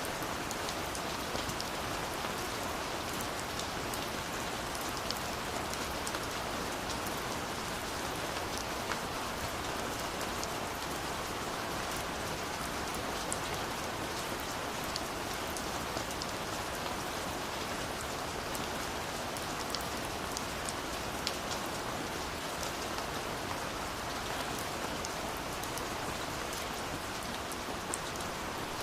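Steady rain falling, a dense even hiss with many small drop ticks on a surface scattered through it.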